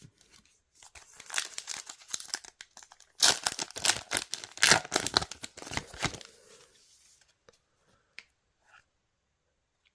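A trading card booster pack wrapper being torn open and crinkled, in a stretch of crackling that is loudest about three to six seconds in, followed by a few faint clicks as it dies away.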